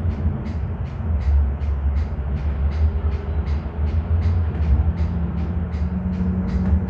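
Light rail train running between stations, heard from inside the car: a steady low rumble of wheels and motors, with a light, regular ticking about three times a second above it.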